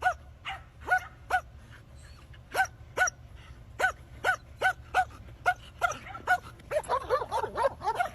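Small dog yipping: short high yips a couple of times a second, coming quicker and overlapping near the end.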